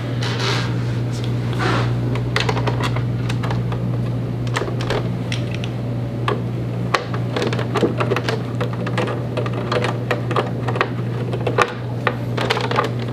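Phillips screwdriver tightening the screws that fasten a monitor to a dual monitor stand: a run of small irregular clicks, over a steady low hum.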